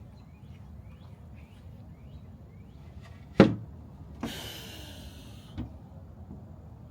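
A single sharp knock about three and a half seconds in, followed by about a second of hiss and then a softer thump, over short chirps repeating about twice a second.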